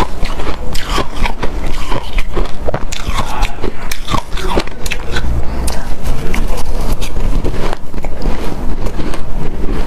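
Close-miked chewing of hard, snow-like powdered ice: a dense, continuous run of crisp crunches and squeaks.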